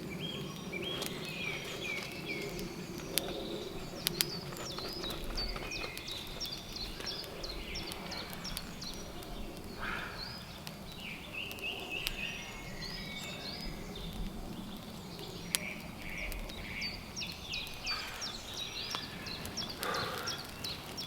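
Woodland birds singing: many short, quickly repeated high chirps and twitters throughout, with a few sharp clicks among them over a low steady background hum.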